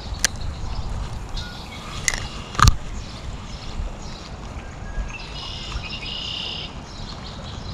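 Outdoor ambience with a steady low wind rumble, a few sharp clicks and knocks, the loudest about two and a half seconds in, and a high chirping bird call near the middle to end.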